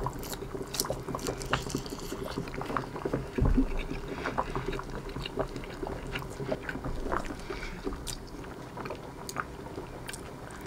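Close-miked chewing of shrimp sushi: soft, wet mouth clicks and smacks scattered throughout, fairly quiet, with one low thud about three and a half seconds in.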